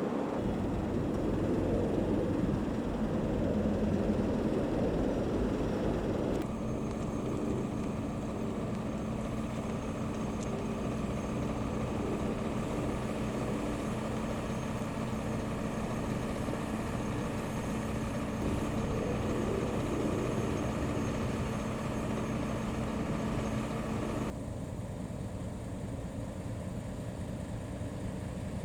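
Large police vehicle engines idling steadily, a low hum under general street noise. The sound changes abruptly twice, about six seconds in and near the end.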